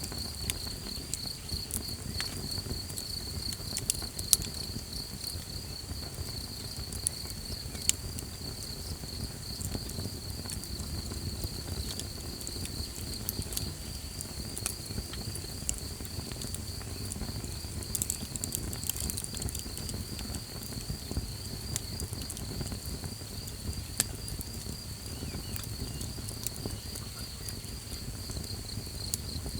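Crickets chirping in a steady, fast-pulsing high trill, over a small campfire crackling with a low rumble and occasional sharp pops.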